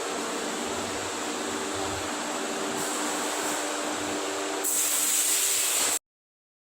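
Industrial machinery running with a steady hiss and a steady hum and whine, louder for its last second or so, then cutting off abruptly.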